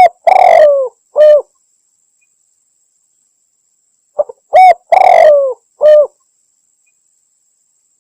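Spotted dove (tekukur) cooing in two phrases about four seconds apart, each made of short notes, a longer falling coo and a closing note. It is a recorded hunting lure call, said to be a female calling to males, played loud and clipped.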